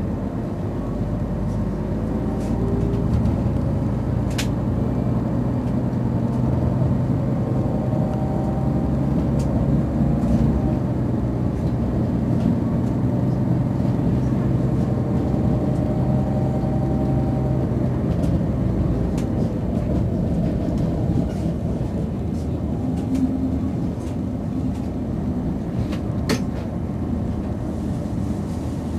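Passenger train running, heard from inside the carriage: a steady rumble and hum, with two sharp clicks, one about four seconds in and one near the end.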